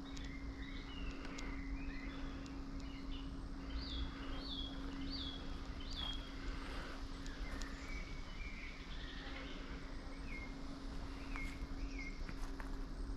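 Woodland birdsong: several birds chirping, with a run of repeated short falling notes about four seconds in and again near the end, over a steady low hum and a low rumble of wind.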